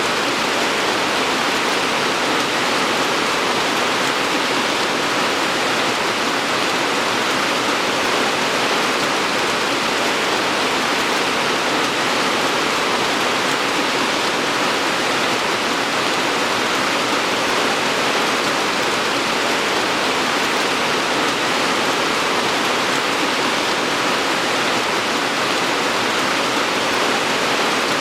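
Steady heavy rainfall, an even hiss of falling rain with no single drops standing out.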